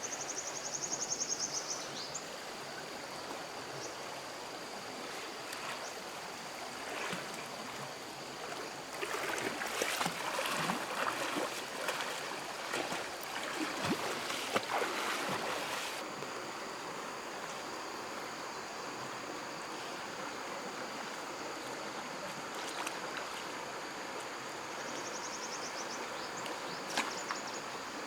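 Stream water flowing steadily under a steady high-pitched tone, with short rattling trills near the start and near the end. From about nine to sixteen seconds in there is a louder, irregular stretch of knocks and rustling.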